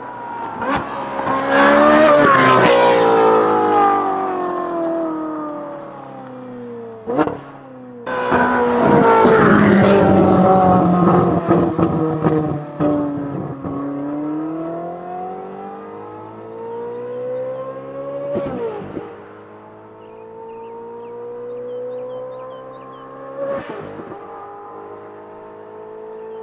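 Ferrari 458's naturally aspirated V8 through a titanium valved exhaust with free-flow front bypass pipes, run loud with the engine note sweeping up and down. It climbs steadily in pitch under acceleration, with short sharp cracks from the exhaust about three times.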